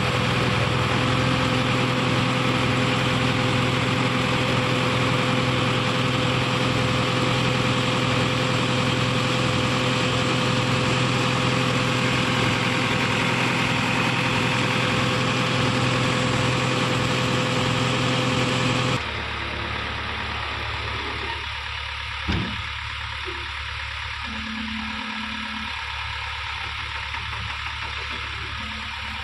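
A heavy diesel engine idles steadily with an even hum. About 19 seconds in the sound cuts abruptly to a quieter low rumble, and a single sharp knock follows a few seconds later.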